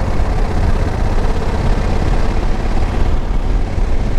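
Wind buffeting the microphone over the steady running of a 2021 Honda Africa Twin's parallel-twin engine while riding.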